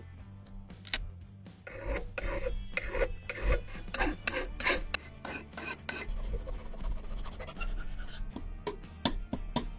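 Hand rasping strokes on a rusty steel pistol part, about two to three strokes a second, turning into shorter, quicker strokes after about six seconds.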